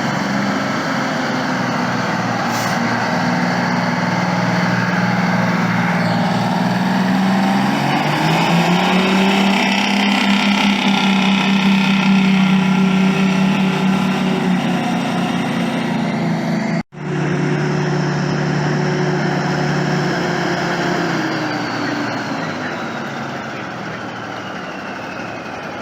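Heavy truck engines running. One climbs in pitch about a third of the way in and holds. After a sudden cut, another truck engine runs and then drops in pitch, with a high whine falling away near the end.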